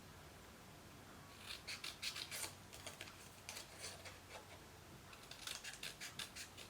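Scissors snipping through folded construction paper, faint, in short runs of quick snips about a second and a half in, near the middle and again near the end.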